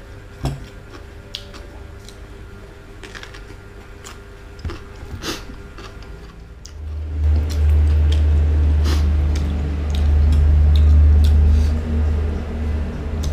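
Close-miked eating: chewing and wet mouth sounds, with a few sharp crunchy clicks as chicken and raw vegetables are bitten. About seven seconds in a loud, steady low hum sets in and runs under the chewing.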